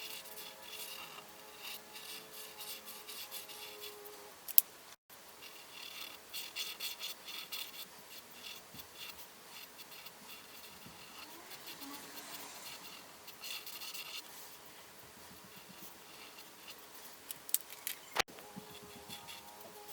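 Coloring strokes scratching on paper in quick back-and-forth scribbles, with a sharp click about four and a half seconds in and a few more clicks near the end.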